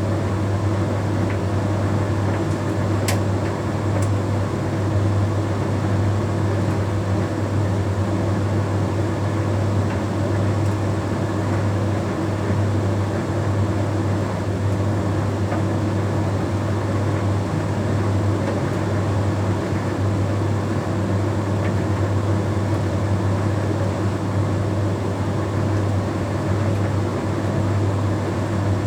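Bosch Series 6 heat pump tumble dryer running steadily mid-cycle: a constant low hum with a steady higher tone over the whirr of the turning drum. There are a couple of faint ticks about three and four seconds in.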